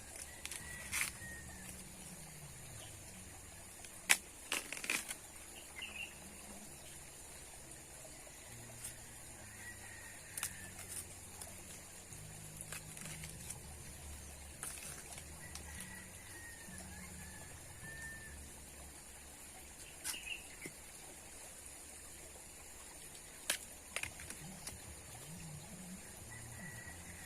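Outdoor ambience: a steady hiss with short bird chirps here and there, and scattered sharp knocks, the loudest about four seconds in.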